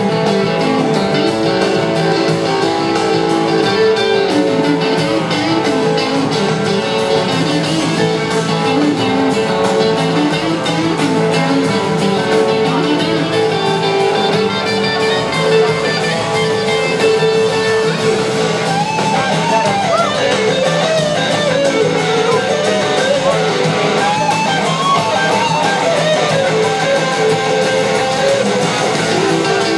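Large blues-rock band playing live: an instrumental jam led by electric guitar over a long held note. About two-thirds of the way through, the lead turns to wavering, bending lines higher up.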